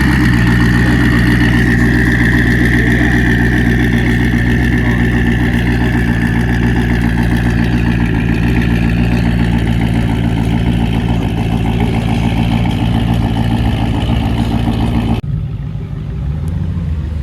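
A car engine idling loudly and steadily. About fifteen seconds in, the sound changes abruptly to a quieter, lower engine rumble.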